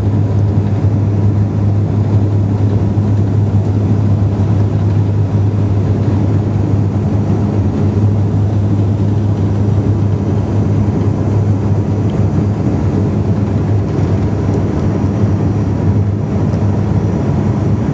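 Steady cabin drone of a turboprop airliner's engines and propellers on descent, with a constant low hum beneath it.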